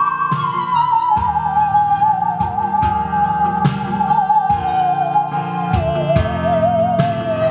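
Musical saw (a bowed hand saw) playing a slow melody line in one sustained, wavering tone with wide vibrato, gliding gradually lower across the phrase, over a recorded accompaniment with a drum beat and keyboard chords.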